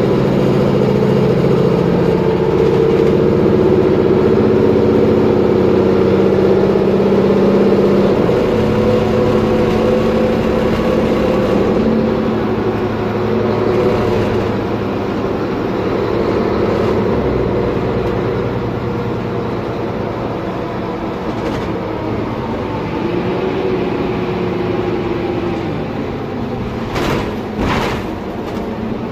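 Mercedes-Benz Conecto G articulated city bus under way, its OM457LA turbo-diesel straight-six running with drivetrain whine. The engine pulls hardest for the first several seconds, then eases off. A couple of sharp clicks come near the end.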